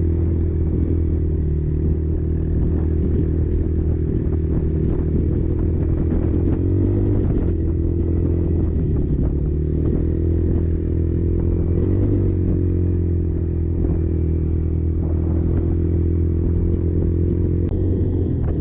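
Kymco Maxxer 300 quad's engine running steadily under way, its note dipping and rising slightly a couple of times, with scattered knocks and rattles from the machine over rough ground.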